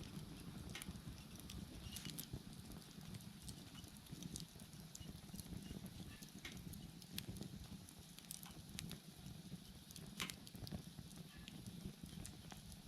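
Wood bonfire burning: irregular sharp crackles and pops over a low steady rumble of the flames.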